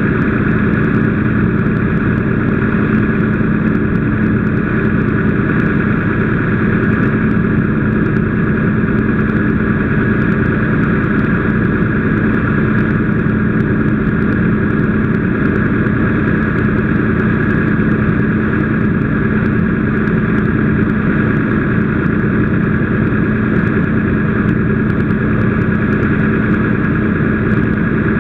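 A steady engine drone running unchanged, with a constant low hum and a fainter higher whine.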